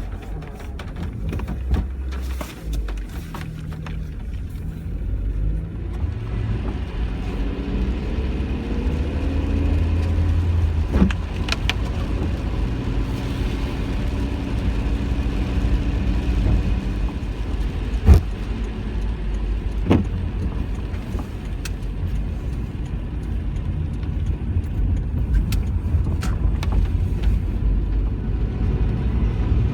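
A car driving, with steady engine and road rumble whose pitch rises and falls as it changes speed. There are a few sharp clicks or knocks, the loudest about two-thirds of the way through.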